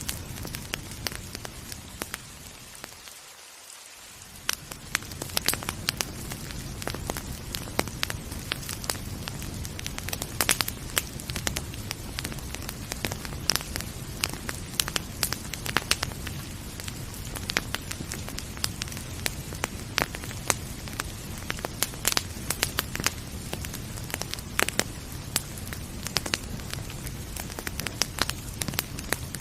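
Wood fire crackling with frequent sharp pops, over a steady hiss of rain. The low background briefly fades out and back about three seconds in.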